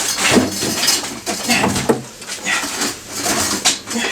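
Irregular metallic clanking and scraping as a motorcycle engine is wrestled on its dolly against the frame.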